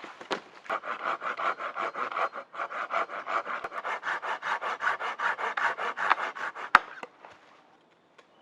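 Hand saw cutting through a wooden branch in quick, even strokes, about five a second, stopping with a sharp crack near the end.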